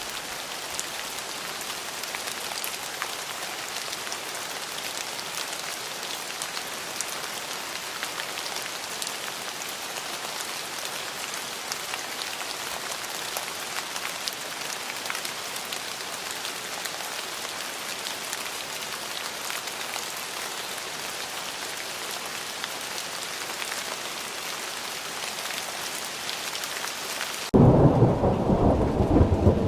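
Steady rain falling, an even hiss with individual drops pattering. Near the end a loud, deep thunder rumble starts suddenly, drowning out the rain hiss.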